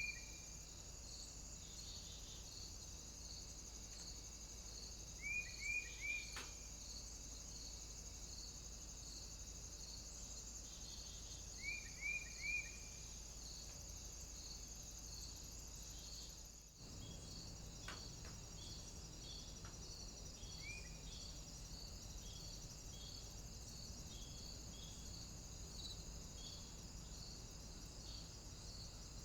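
Steady high-pitched cicada and insect chorus with a pulsing call about twice a second. A call of three quick chirps comes through at the start, again about six and twelve seconds in, with a single chirp near the end.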